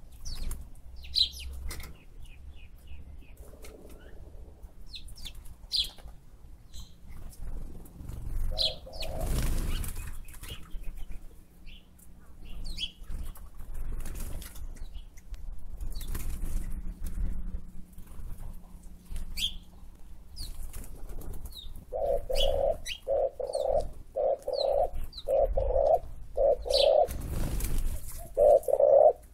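Wild birds calling: short high chirps keep coming, and for the last seven seconds or so a lower call repeats rapidly, about two notes a second.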